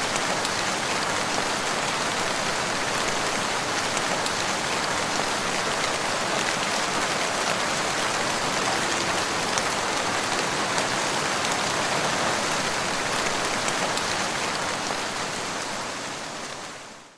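Steady, dense rain falling on a surface, fading out near the end.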